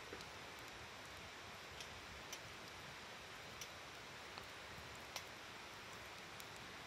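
Campfire of burning firewood crackling, with about seven sharp pops at irregular intervals, over the steady murmur of a stream.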